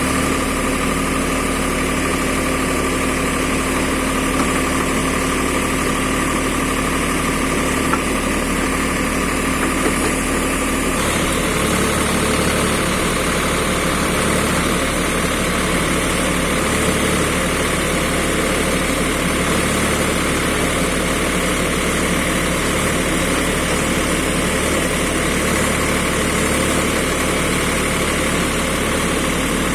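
Engine of a tractor carrying an AgriBULL V2 backhoe running steadily during digging work. Its tone changes about eleven seconds in.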